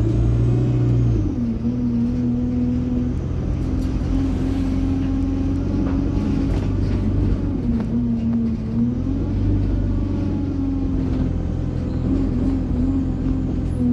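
Alexander Dennis Enviro200 bus under way, its engine and Allison automatic gearbox pulling, with the engine pitch dropping and climbing again several times as it accelerates and shifts, and turbo whine.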